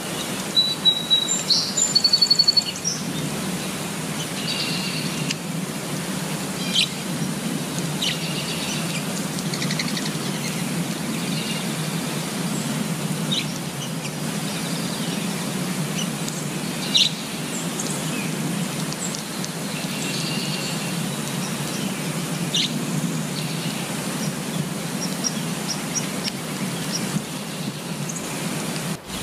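Steady rain falling on leaves, with birds chirping and calling over it. There is a cluster of short high calls in the first few seconds, then scattered chirps.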